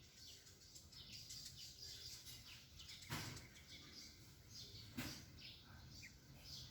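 Faint chirping of small birds: many short, quick falling chirps, with two soft knocks about three and five seconds in.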